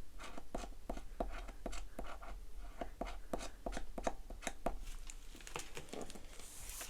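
Pen strokes on paper, short quick scratches about three or four a second, as a space on a paper savings challenge sheet is marked off, then a brief rustle near the end.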